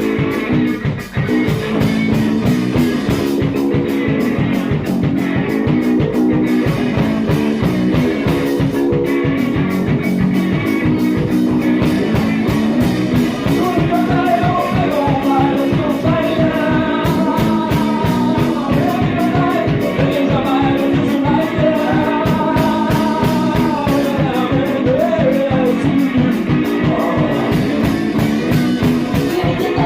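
Rock song with guitar over a steady drum beat; a singing voice comes in about halfway through.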